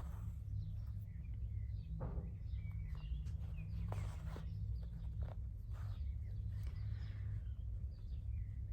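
Hand embroidery: a needle and embroidery thread drawn through fabric, with scratchy rustles and small clicks, over a steady low hum.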